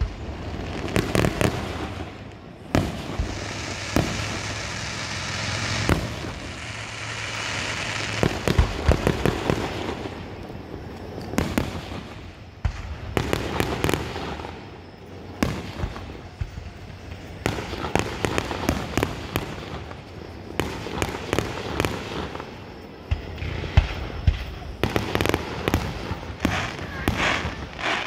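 Aerial fireworks display: shells bursting in an irregular string of bangs and pops, some coming singly and some in quick flurries.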